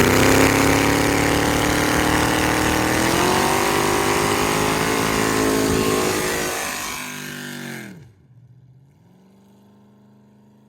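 Race truck engine revved hard and held high during a burnout, with a loud hiss of spinning tyres over it. The revs step up about three seconds in and fall away near the two-thirds mark. The loud sound stops abruptly, leaving the engine running much quieter, its pitch dipping and then rising.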